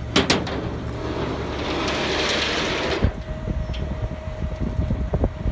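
Heavy machinery running with a low rumble. Two sharp clanks come just after the start, then a hiss that cuts off with a knock about three seconds in, followed by a steady whine.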